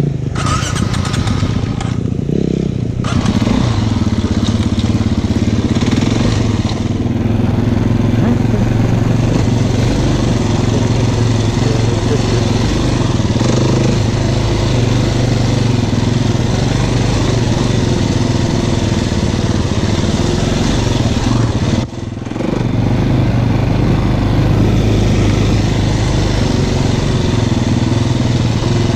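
Single-cylinder engine of a KTM enduro motorcycle running under way on a rough dirt track, throttle held fairly steady. The engine note picks up about three seconds in, and dips sharply for a moment about three-quarters of the way through before coming back.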